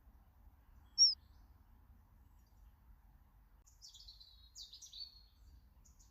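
Small garden songbirds calling: one sharp, high chirp about a second in, then two short twittering phrases past the middle and a brief note near the end.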